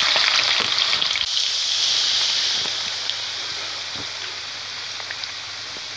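Potato sticks deep-frying in hot ghee: a dense sizzle with scattered crackles, loudest at first and easing off gradually.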